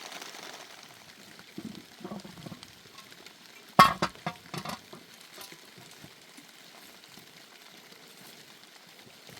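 Food sizzling and frying in a pan over a fire, a steady hiss, with stirring; about four seconds in a metal utensil strikes the pot with a loud sharp clatter, followed by a few lighter clinks.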